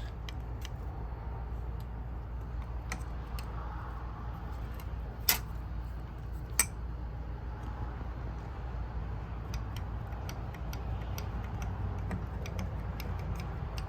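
Small metallic clicks and ticks of a loose number 4 piston in a Suzuki Hayabusa engine being rocked by hand, with two sharper clicks about five and six and a half seconds in, over a steady low hum. The clicking is the slop of a damaged piston, which the owner puts down to a lubrication problem.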